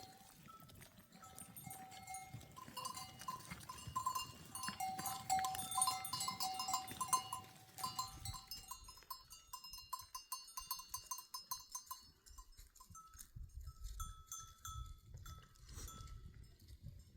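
Several bells worn by herded livestock clinking irregularly as the animals move, many at once through the first half, then fewer and higher-pitched bells.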